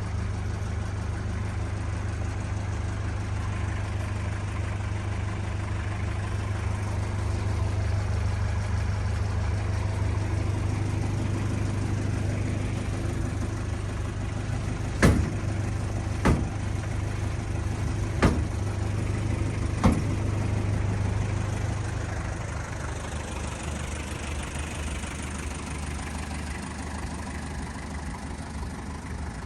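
Mazda R2 diesel engine of a 1996 Bongo Brawny idling steadily with a low drone, broken by four sharp knocks in the middle; the drone eases off about three-quarters of the way through.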